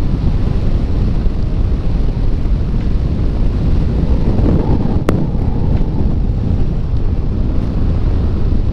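Wind buffeting the microphone of a rider on a moving electric motorcycle: a steady low rumble with no engine note. A single sharp click about five seconds in.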